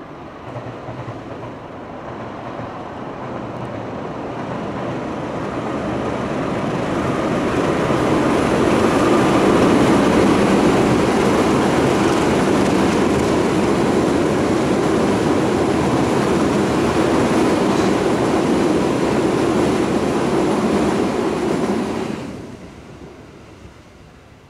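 Long passenger train crossing a steel truss rail bridge, its wheels and coaches making a dense rumble. The rumble grows louder over the first several seconds, holds steady, and drops away sharply near the end.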